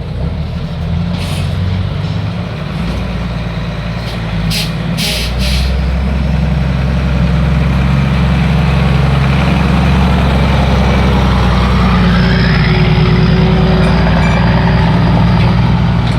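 Heavy diesel truck engine running, growing louder from about six seconds in, with three short hisses of air a little before that.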